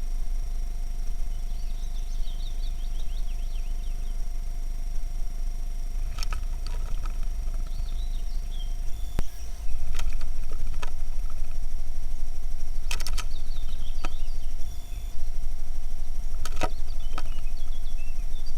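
Faint chirping and twittering of small songbirds in several short phrases, with a few sharp clicks, over a steady low rumble.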